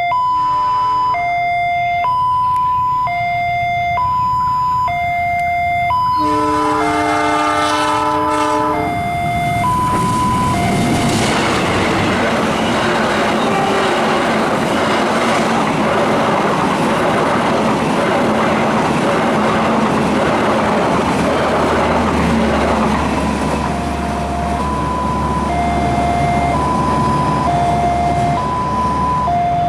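A level crossing's electronic warning alarm sounds, alternating between a high and a low tone about once a second. About six seconds in, a diesel locomotive's horn blows a chord for about three seconds. The train then passes with loud wheel and rail noise that covers the alarm for roughly twelve seconds before the alarm is heard again, with a low rumble under it.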